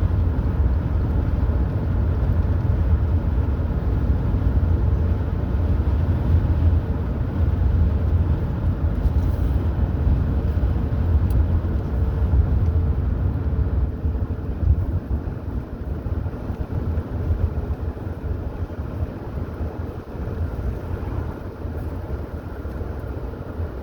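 A car driving: a steady low rumble of engine and road noise, which eases slightly about halfway through.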